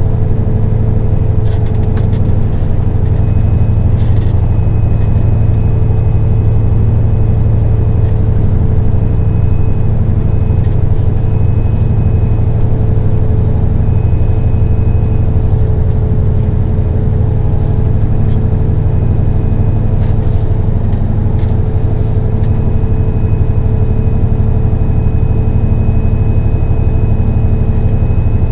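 Semi truck's diesel engine running steadily at an unchanging pitch under way, heard from inside the cab with road noise and a faint high whine.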